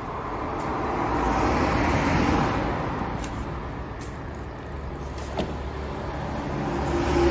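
A road vehicle passing by: a rushing noise that swells to a peak about two seconds in and fades away, with a second vehicle approaching near the end over a low rumble. A couple of faint clicks are heard in between.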